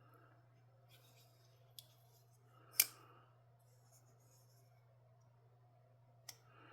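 Folding knife's blade being worked on its detent and ball-bearing pivot: a couple of faint clicks and one sharp click about three seconds in, as the blade snaps open and locks. A faint steady hum underneath.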